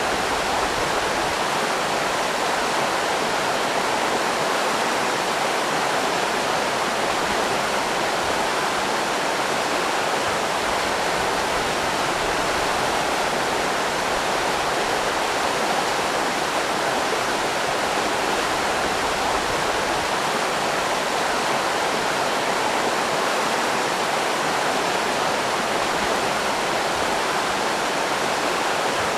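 River rapids rushing, a steady, unbroken rush of water.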